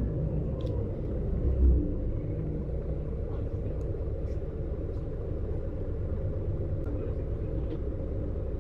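Marcopolo Paradiso G7 double-decker bus on a Scania chassis running, a steady low rumble of engine and running gear, with one louder low thump a little over a second in and a few light rattling ticks.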